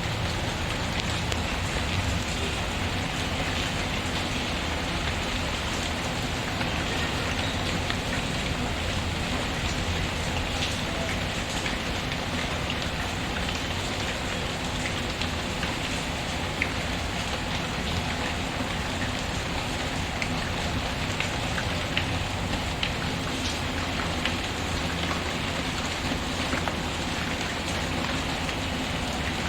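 Steady rain falling, with scattered small clicks and crackles of a wood fire mixed in.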